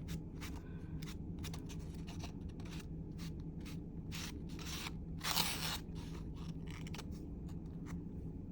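Distress Oxide ink being rubbed and dabbed onto a paper journal page: irregular short scratchy strokes, with one longer, louder stroke about five seconds in, over a faint steady low hum.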